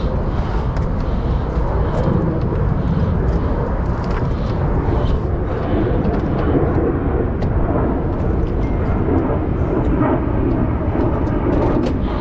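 Steady low rumble of wind buffeting the microphone over open water.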